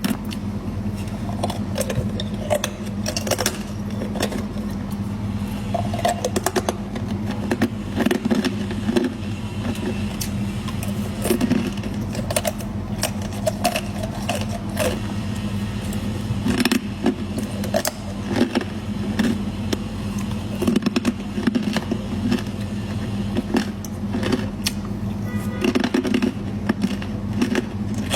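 Ice, made with matcha, being bitten and crunched close to the microphone: many sharp, irregular crunches in quick succession. A steady low hum runs underneath.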